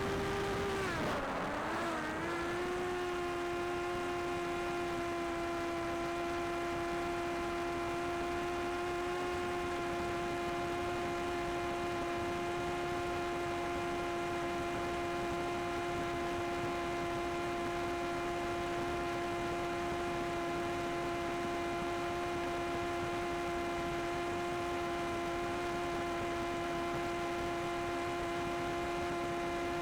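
Drone's propellers humming steadily, the pitch dipping briefly about a second in and then holding a little lower.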